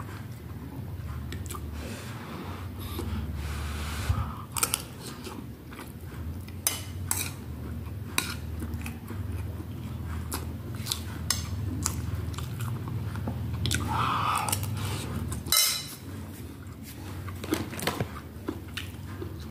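A person chewing mouthfuls of rice and chicken close to the microphone, with scattered clicks of a metal spoon against a plate, over a low steady hum.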